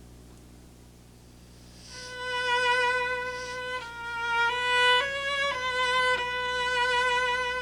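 Solo cello played high in its register with vibrato: after about two seconds of pause, a long held note, then a few quick changes of pitch and another long sustained note.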